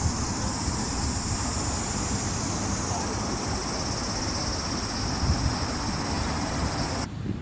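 Shukugawa River water flowing, with wind buffeting the microphone, under a steady high drone of summer cicadas that cuts off suddenly near the end.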